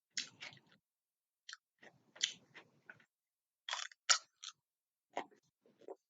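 A person chewing food close to the microphone: a string of short, crisp crunches with brief pauses between them.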